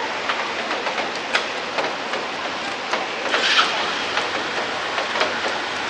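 Steady rain falling, with scattered sharp drips and patters striking nearby surfaces at irregular intervals, and a brief louder patch about three and a half seconds in.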